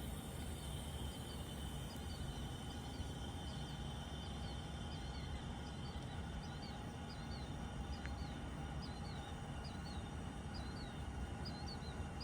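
A small bird calling a short, hooked chirp over and over, about twice a second, growing louder toward the end, over a steady low hum.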